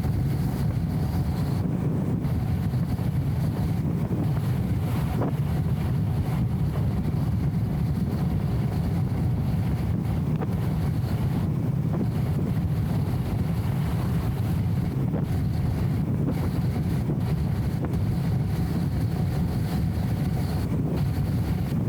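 Steady, even low rumble of a BMW E34 M5 Touring cruising: its straight-six engine and road noise, muffled and flattened by the recording camera's anti-wind filter.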